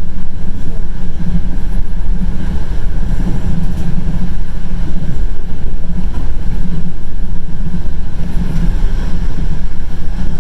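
Loud, steady rumble and rush of a passenger train running along the track, heard from inside the carriage, with wind noise at the open window.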